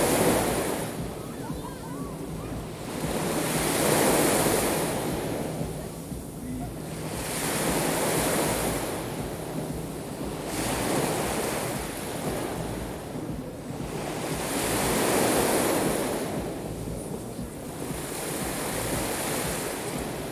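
Black Sea waves breaking on the shore, each wash swelling and fading about every four seconds, with wind buffeting the microphone.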